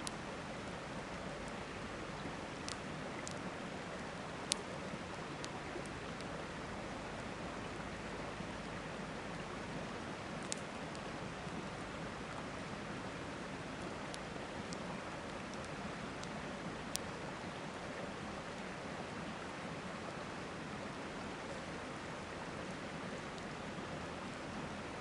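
Steady rushing of a river, with a campfire crackling over it in scattered sharp pops, about a dozen, a few of them louder.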